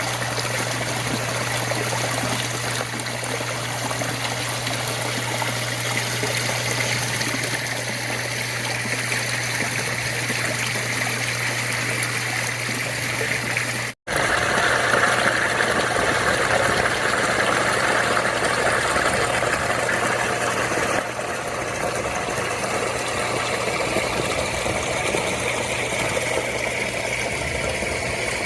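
Water running and trickling steadily over a garden pond's waterfall and stream. There is a brief cut about halfway through, and the water sounds a little louder after it.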